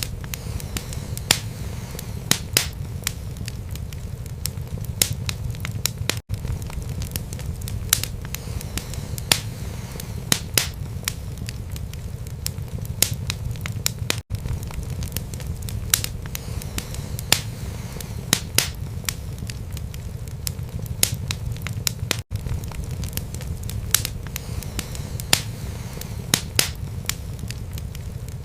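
Wood fire burning in a fireplace: a steady low rumble of flames with irregular sharp crackles and pops, several in some seconds and none in others. A brief dropout comes about every eight seconds.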